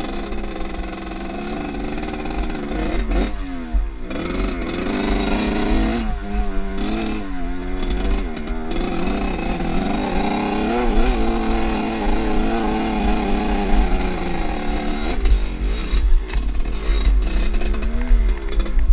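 Off-road motorcycle engine revving up and down as it is ridden over rough ground, its pitch rising and falling again and again.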